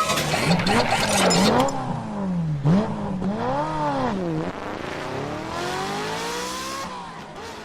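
Motorcycle engine revving up and down several times in quick swells, then one long rising rev that fades away near the end.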